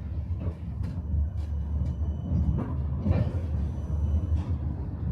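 Electric tram in motion, heard from inside the car: a steady low rumble of wheels and running gear on the rails, with scattered sharp clicks. A faint high whine comes twice.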